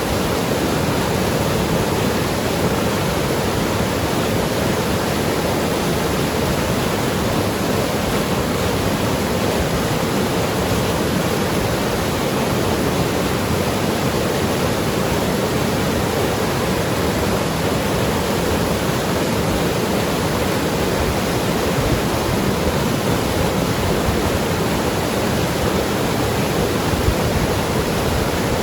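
Mountain river rushing and gurgling over rocks, a steady full water noise with no changes.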